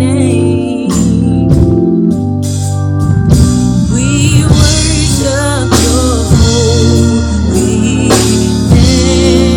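Gospel music: singing with vibrato over sustained organ chords and drums.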